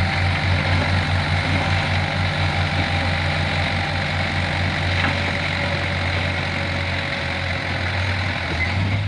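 Mitsubishi Canter HDX dump truck's diesel engine running at low speed, with a throbbing beat in the first half that evens out about halfway through.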